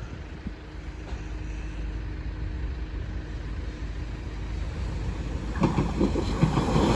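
A motor vehicle engine running with a steady low rumble, growing louder toward the end.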